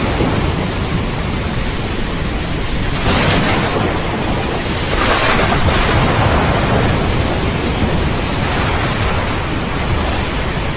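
Steady heavy rain with the low rumble of thunder running under it. The sound swells louder about three seconds in and again about five seconds in.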